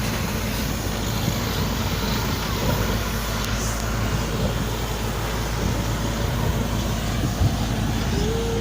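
A JCB backhoe loader's diesel engine running steadily, with a continuous low drone.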